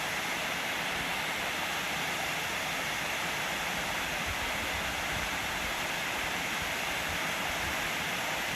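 Waterfall: a steady, even rush of falling water that cuts off abruptly at the end.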